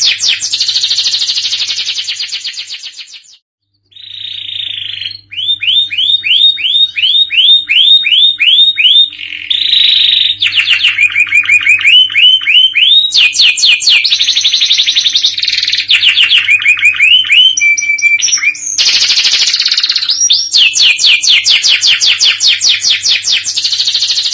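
Domestic canary singing a long, continuous song of rapid trills and rolls: runs of fast repeated sweeping notes that change speed and pitch from phrase to phrase, with a brief pause about three and a half seconds in.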